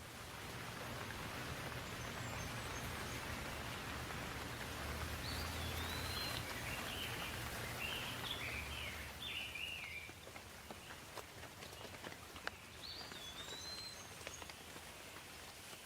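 Steady rain falling, swelling over the first seconds and easing about ten seconds in to lighter rain with separate drops. A bird calls over the rain: short up-and-down whistles around the middle, and once more near the end.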